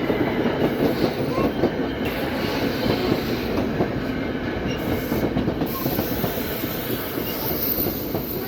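NJ Transit commuter train passing over the level crossing: a steady rolling rumble with rapid wheel clatter over the rail joints and crossing, easing slightly toward the end.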